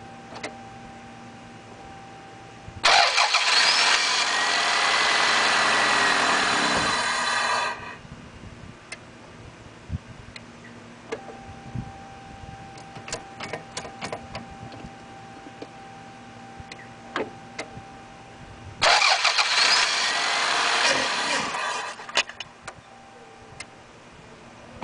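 Fuel-injected car engine with an open cone air filter, idling and revved twice with a sudden loud intake roar. The first rev is held about five seconds and the revs fall away as it is released; the second is shorter. The owner calls it an intake problem.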